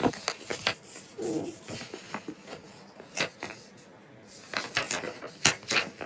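Irregular series of light, sharp clicks and knocks of hard objects being handled, a dozen or so, bunched near the start and again in the last second and a half.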